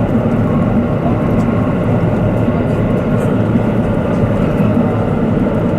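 KiHa 85 series diesel railcar running at speed, heard inside the train: a steady engine drone and rolling noise from the wheels and rails.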